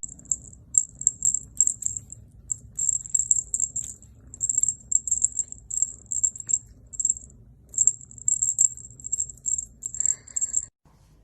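A small jingle bell jingling in quick, irregular shakes with short pauses, stopping suddenly near the end.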